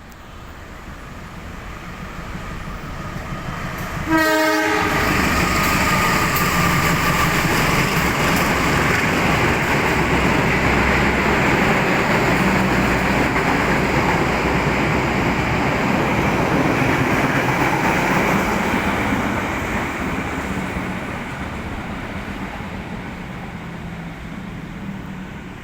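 A train passing at speed. Its approach builds, a short horn blast sounds about four seconds in as the train reaches the microphone, then the wheels rumble loudly and steadily on the rails before fading away over the last several seconds.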